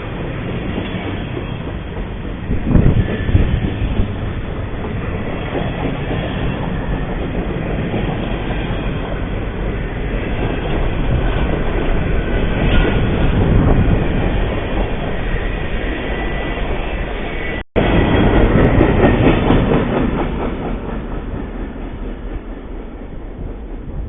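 A train rolling past close to a trail camera, wheels clicking over rail joints with steady rumbling noise, heard through the camera's thin, muffled microphone. About 18 s in the sound cuts out for an instant and picks up again on another clip of a passing train, then fades toward the end.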